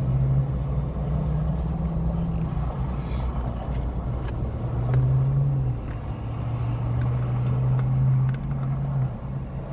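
Steady low hum of an idling vehicle engine, its pitch shifting slightly, with a few faint clicks.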